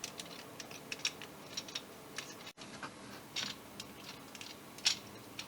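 Plastic parts of a Transformers Sandstorm action figure clicking and tapping as it is handled and its joints are moved, a scatter of small sharp clicks with the loudest near the end. The feet are lowered on ratcheted joints.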